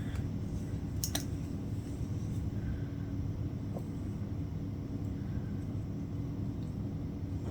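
Steady low background hum, with a couple of light clicks about a second in and another faint one later, from a latch hook tool pulling yarn through the canvas.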